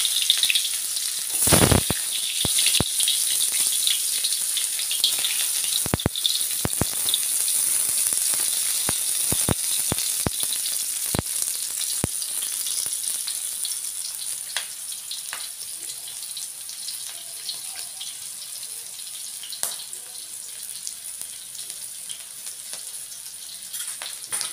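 Sliced ginger, garlic and whole spices sizzling in hot cooking oil in a wok, a steady hiss with scattered spattering pops, loudest at first and dying down gradually. A louder knock comes about a second and a half in.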